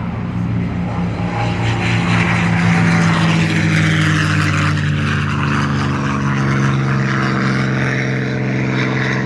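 P-51D Mustang fighters' Merlin V-12 engines droning steadily in flight, the propeller and exhaust sound swelling and easing as they pass.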